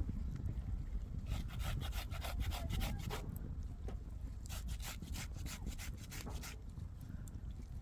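Hand saw cutting wood: two runs of quick back-and-forth strokes with a short pause between, over a steady low rumble.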